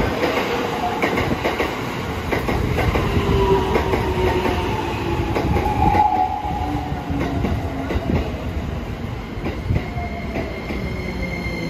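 Keikyu electric commuter train pulling in and braking on the next track, its traction motors whining in several tones that fall slowly in pitch as it slows, with wheels clicking over the rail joints.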